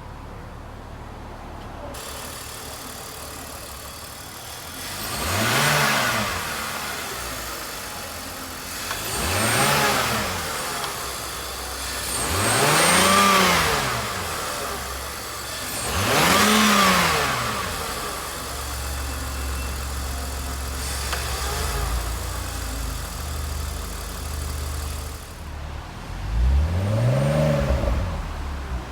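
A sports car's engine idling and being revved at a standstill, with about five separate throttle blips that rise in pitch and fall back to idle.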